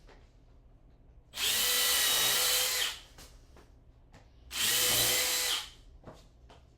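Electric power tool motor running in two bursts, one of about a second and a half and a shorter one about three seconds later, each with a steady whine.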